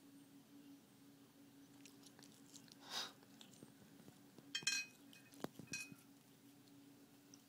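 Faint clicking and a brief chattering burst from a house cat worked up over birds, as it chatters its teeth at them. The loudest moment is a quick cluster of clicks with a short chirp about halfway through, then a single sharp click.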